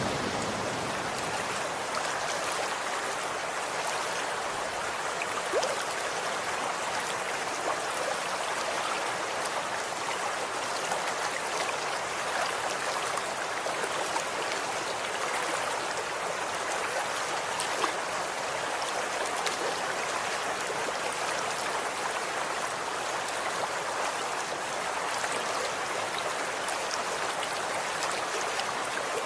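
Running water flowing steadily like a small stream, an even rushing with scattered small splashing ticks.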